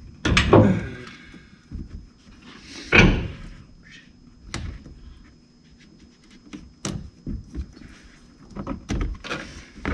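A few heavy thunks and clanks of parts and tools being handled during front suspension work, the loudest about half a second in and three seconds in, with lighter knocks later.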